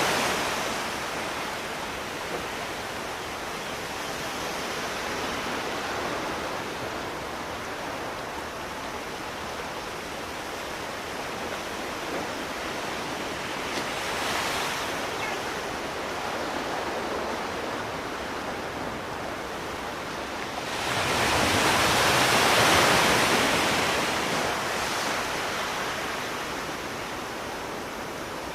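Sea waves washing on a shore: a steady rush of surf, with a bigger wave breaking suddenly about two-thirds of the way through and slowly draining away.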